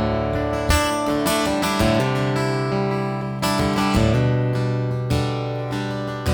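Acoustic guitar strumming chords in an instrumental break of a song, each chord struck about once a second and left to ring.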